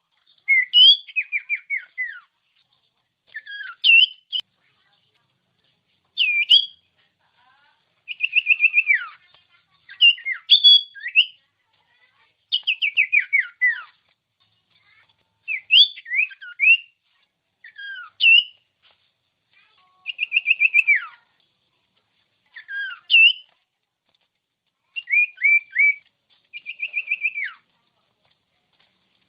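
Common iora (cipoh) singing: a string of short whistled phrases, each about a second long with brief pauses between, made of quick repeated notes, upward flicks and falling slurs.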